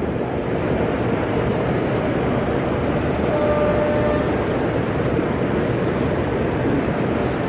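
Steady rumble of an 0 gauge model train running along the layout, against the general hubbub of an exhibition hall. A faint short tone sounds about three and a half seconds in.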